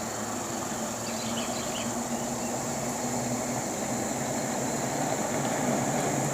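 Logging truck's diesel engine running at a steady pitch, with a steady high insect drone.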